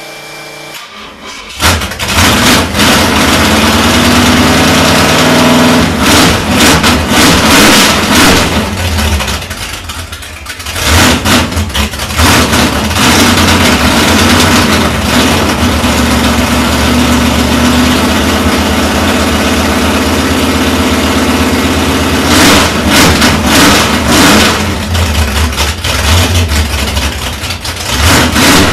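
Car engine starting, catching about a second and a half in, then revved several times and left running between revs.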